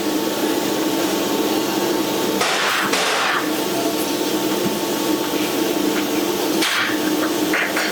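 Steady electric buzz and hiss of welding on a titanium exhaust pipe, with louder hissing surges about two and a half seconds in and again near seven seconds.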